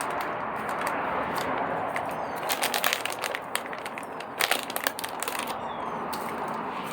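Raw chicken wings being mixed by hand in tempura batter: a steady wet rustling and crackling, with bursts of sharp clicks about two and a half and four and a half seconds in.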